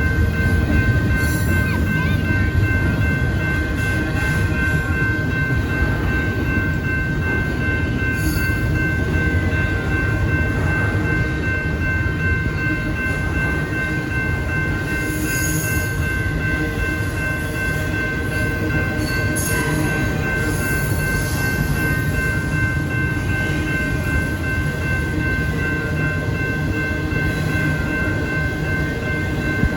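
A train rolling past a railroad crossing: a steady low rumble of wheels and cars, with a thin high tone held throughout and occasional brief clanks.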